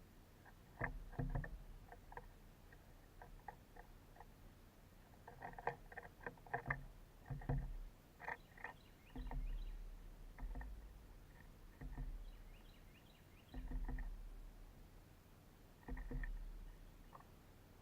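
Irregular light taps and clicks of birds pecking at suet in a wire feeder cage, with low gusts of wind rumbling on the microphone and a few faint high chirps.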